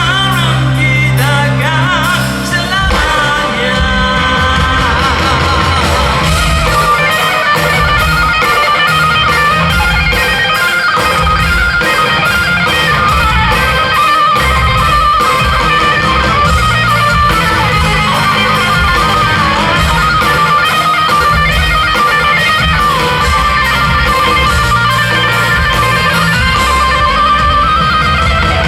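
A rock band playing live at full volume: an electric guitar lead line bends and wavers over bass and steady drums, in an instrumental passage of the song.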